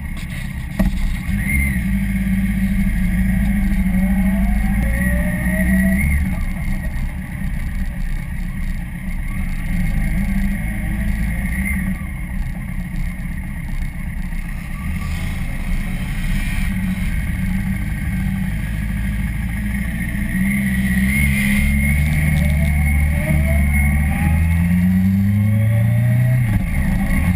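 Sport motorcycle engine heard from on the bike while riding, its pitch shifting up and down with the throttle. Near the end it revs up through a gear and drops back at a gear change.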